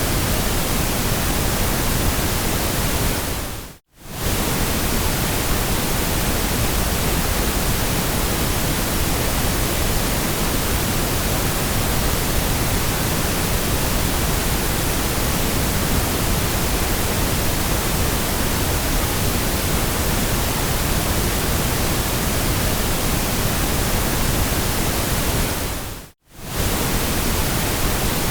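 Steady synthesized noise, an even featureless hiss across all pitches, that briefly fades out to silence and back in twice: about four seconds in and near the end.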